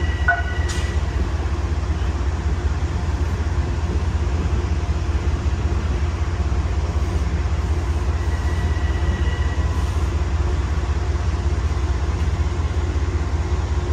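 A train running at the station with a steady low rumble that holds at one level throughout.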